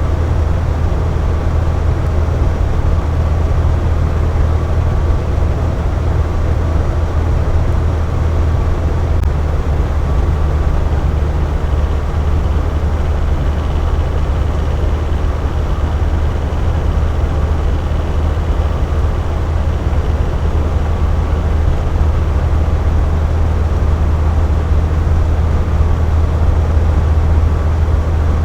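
Box fan running steadily, a continuous low whooshing hum with most of its weight in the low range.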